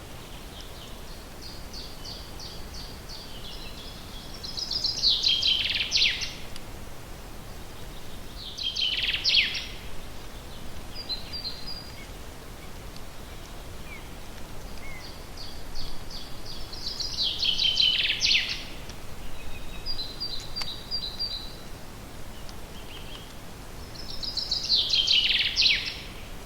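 A songbird singing the same short song about four times: a quick run of repeated notes that ends in a louder falling flourish, with a few short chirps between songs. A steady faint background hiss runs underneath.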